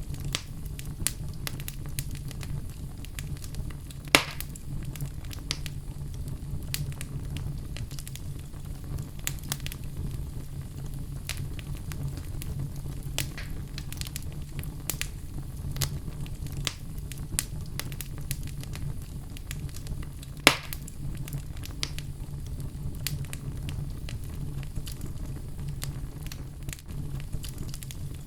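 Fire burning in a fireplace, crackling with frequent small pops over a steady low rumble. Two louder sharp pops stand out, about four seconds in and again about twenty seconds in.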